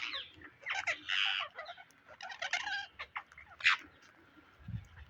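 Pet Psittacula parrots chattering and squawking in a string of short, irregular calls. A brief low thump comes near the end.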